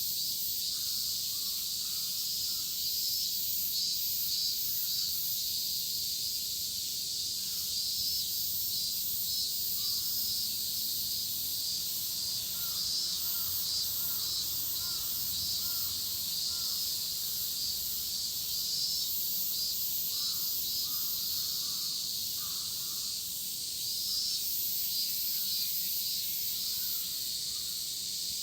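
A chorus of midsummer cicadas shrilling steadily. Over it, crows caw now and then, with a run of about five caws near the middle.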